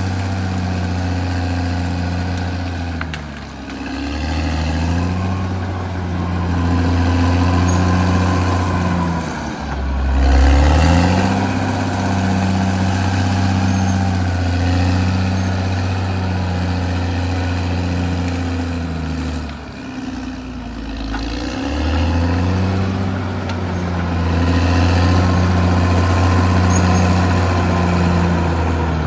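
Caterpillar D6R XL bulldozer's diesel engine running steadily under load, its pitch and loudness dipping and recovering about four seconds in, about ten seconds in, and again around twenty seconds in.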